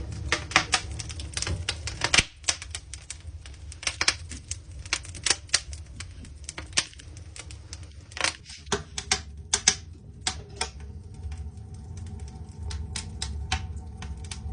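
Wood fire crackling in a stove's firebox: irregular sharp pops and snaps over a low steady rumble.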